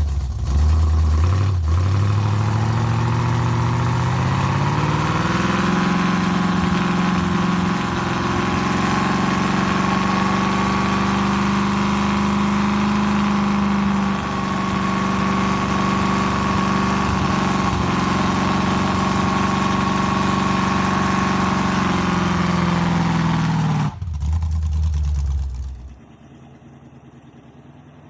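A vehicle engine running: it rises in pitch over the first six seconds, holds a steady note, then cuts off a few seconds before the end, leaving a brief low rumble.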